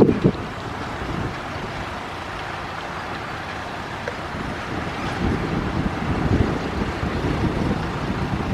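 Heavy earthmoving machinery's diesel engine running steadily, swelling louder now and then, with wind buffeting the microphone.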